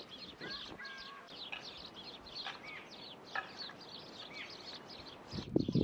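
Small songbirds chirping in a quick, continuous series of high notes, with a few clearer whistled notes in between. Near the end come a couple of dull knocks, louder than the birdsong.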